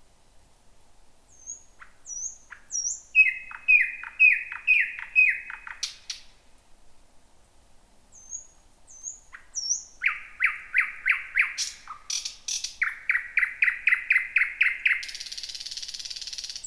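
Thrush nightingale singing. Phrases of high upslurred whistles alternate with runs of loud repeated notes falling steeply in pitch. Two fast series of repeated notes close on a dry, rattling churr near the end.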